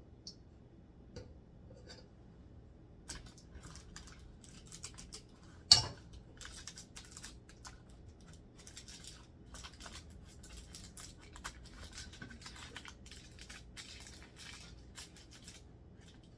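Kitchen handling noises: a few faint ticks, then a single sharp clack about six seconds in, followed by a run of quick clicks, scrapes and rustles.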